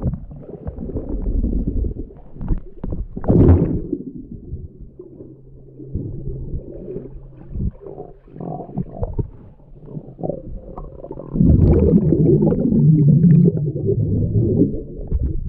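Muffled underwater sound of a swimmer moving through swimming-pool water, heard through a GoPro's waterproof housing: churning water and gurgles with scattered bubbly bursts. A faint steady low hum comes in about a third of the way through, and the churning grows louder for a few seconds about three-quarters through.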